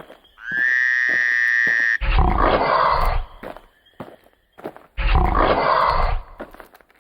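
A high whistling tone rises and is held for about a second and a half, then two loud, rough roars follow, each lasting about a second. Short clicks and taps come between them.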